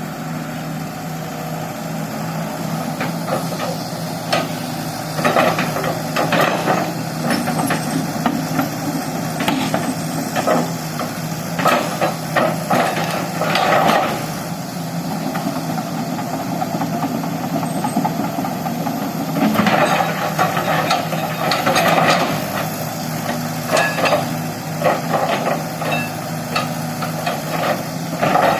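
Excavator diesel engine running steadily, with two long stretches of irregular metal clanking and knocking as the machine works.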